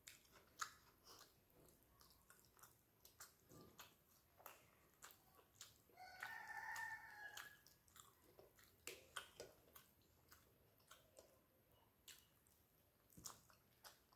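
Faint close-up eating sounds of rice and fish mixed and eaten by hand: wet chewing with frequent short lip smacks and clicks. A drawn-out pitched call lasting about a second and a half sounds in the background about six seconds in.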